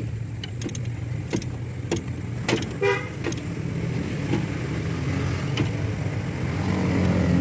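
A vehicle engine idling with a steady low drone. A few sharp metallic clicks and taps come in the first three seconds, and a brief high-pitched toot sounds about three seconds in.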